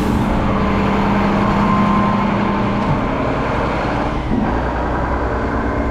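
Garbage truck's diesel engine running steadily as the truck pulls away, a constant drone with a faint steady whine above it.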